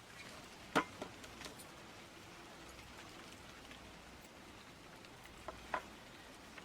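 A few scattered light clicks and taps, the sharpest about a second in and again near the end, over a faint steady hiss.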